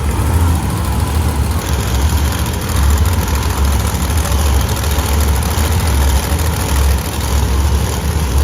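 Monster truck engines running loudly in an arena, a heavy low rumble that swells and dips unevenly.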